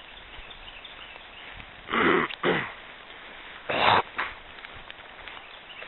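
A person coughing: two quick rough coughs about two seconds in, then another near four seconds.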